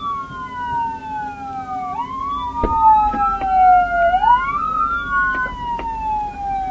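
Police car sirens wailing, two of them out of step, each rising quickly and falling slowly about every two seconds, with a few sharp clicks.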